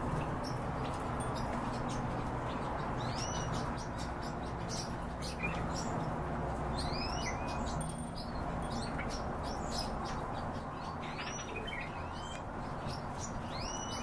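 Birds chirping: short high calls, each rising sharply and then levelling off, come singly or in quick pairs every second or two over a steady low hum.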